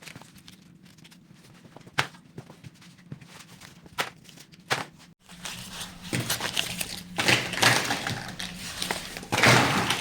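Cardboard and paper being handled: a few sharp clicks and knocks, then from about five seconds in a rough scraping and rustling that grows louder twice.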